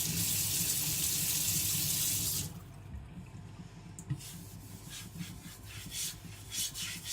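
Water running from a tap, cut off abruptly about two and a half seconds in. After a short pause, a kitchen knife's edge is stroked back and forth on a Kitayama 4000 whetstone, a short scraping swish about twice a second, the edge skating on top of the hard stone.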